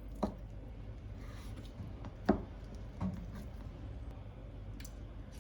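Kitchen knife cutting crab sticks on a cutting board: a few separate knocks of the blade against the board, the loudest about two seconds in.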